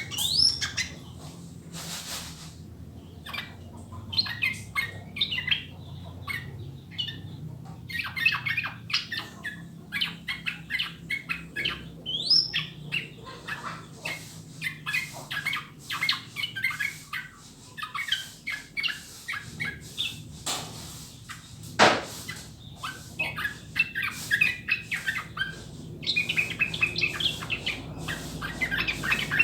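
Yellow-vented bulbul (trucukan) singing in repeated bursts of quick chattering, bubbly notes, with a few short rising whistles and one louder brief note about three-quarters of the way through.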